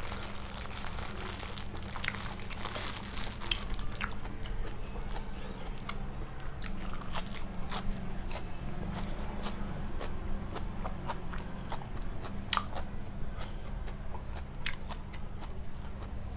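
A person chewing a mouthful of blanched-shrimp salad close to the microphone, with many small irregular crunches and bites.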